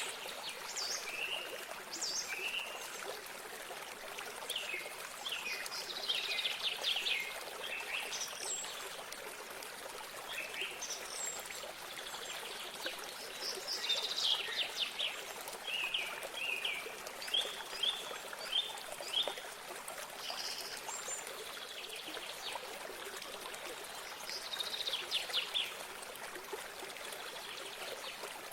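Small stream of water running and trickling steadily, with several songbirds singing over it in short phrases, including a run of quick repeated notes about two-thirds of the way through.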